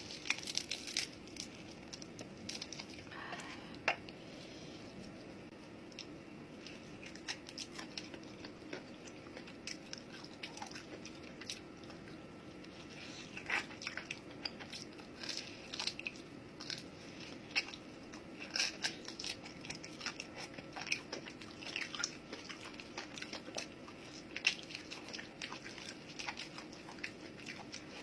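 Close-up eating sounds: biting and chewing with many short, crisp crunches scattered throughout, more frequent in the second half, over a steady low hum.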